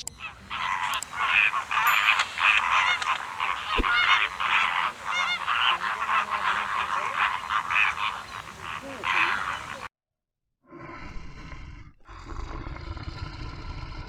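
A flock of waterfowl calling, many honking calls overlapping, which cuts off suddenly near the end; after a short silence a different, lower animal sound begins.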